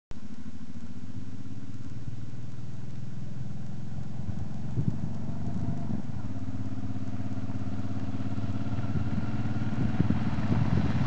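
Steady low motorcycle engine hum, growing slightly louder near the end as a Honda Africa Twin XRV750 V-twin approaches.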